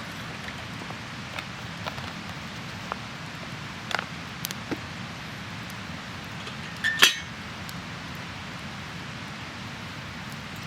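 Steady rushing background noise with scattered sharp clicks and taps, and one louder clink that briefly rings about seven seconds in.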